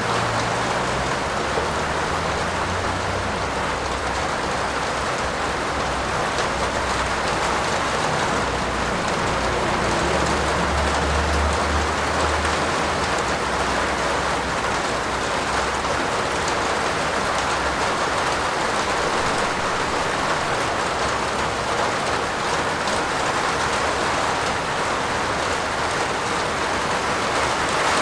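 Steady heavy rain falling on a roof, an even unbroken patter. A low rumble runs underneath through the first half and is strongest around the middle before fading out.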